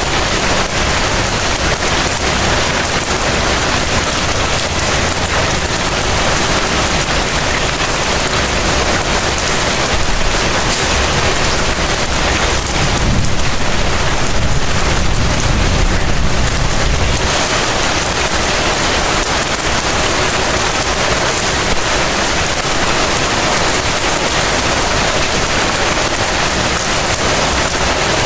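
Heavy rain falling steadily. A low roll of thunder swells and fades about halfway through.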